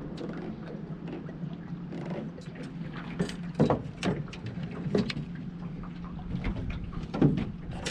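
Irregular knocks and clatter on a fishing boat over a steady low hum, with the loudest knocks about three and a half seconds in and again near the end.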